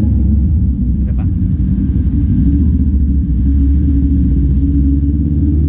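Kawasaki Z400's parallel-twin engine and exhaust running steadily.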